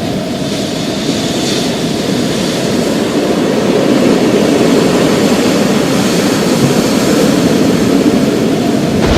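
Thunderstorm: a low, rolling rumble of thunder that slowly swells, then breaks into a sharp, loud thunderclap right at the end.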